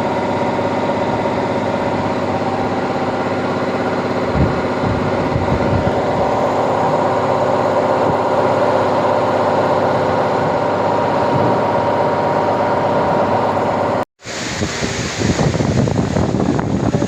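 Steady machinery hum with several constant tones, unchanging for about fourteen seconds; then it cuts off abruptly and a rougher, uneven noise follows.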